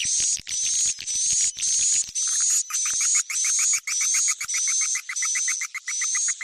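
Swiftlet lure call, a played-back track for drawing swiftlets: a high buzzy chirp repeating about twice a second, joined about two seconds in by a fast twittering of short lower notes, about six a second.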